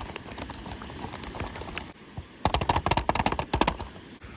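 Foil freeze-dried meal pouch crinkling in a dense, rapid crackle for about a second and a half a little past the middle, with faint handling rustle and small clicks before it.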